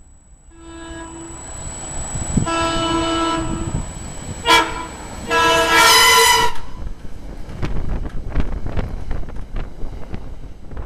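SEPTA Regional Rail train's air horn sounding four blasts: a faint short one, a longer one, a short sharp one, then the longest and loudest, with wind on the microphone underneath.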